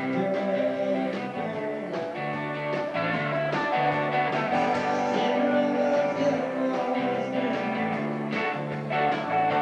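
A band playing rock music led by guitar, with a steady beat.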